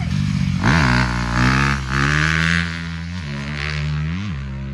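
Dirt bike engine revving under throttle, its pitch climbing and then dropping sharply several times as the rider shifts or backs off.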